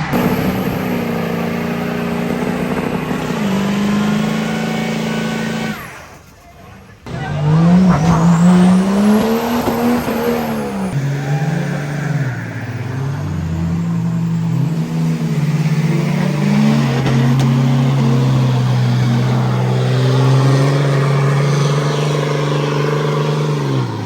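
Truck engine held at high revs for a burnout, its pitch holding and stepping up and down, with tire squeal. The sound drops out briefly about six seconds in.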